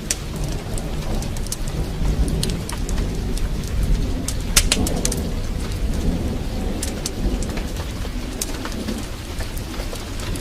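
Heavy rain with a low, continuous rumble of thunder, over a fireplace fire crackling with sharp pops, the loudest about halfway through.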